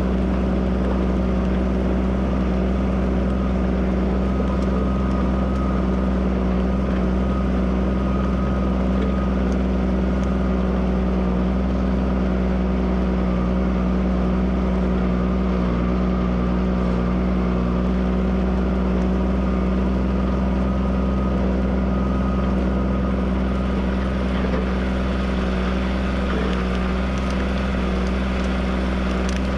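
Tractor engine running steadily under load while ploughing, holding an even pitch throughout.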